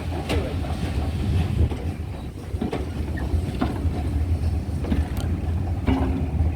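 GWR Manor-class steam locomotive 7827 Lydham Manor pulling its train away: a steady low rumble with scattered, irregular knocks, and wind buffeting the microphone.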